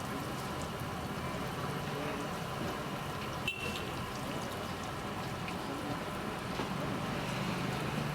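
Battered mirchi bajji deep-frying in hot oil, a steady crackling sizzle over low street-stall background noise. There is one sharp tap about halfway through.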